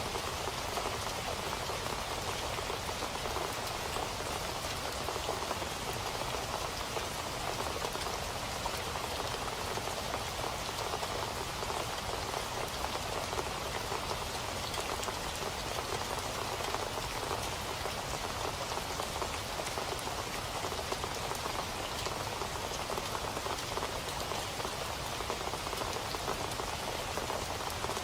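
Steady rain falling, with many separate drop hits on a surface.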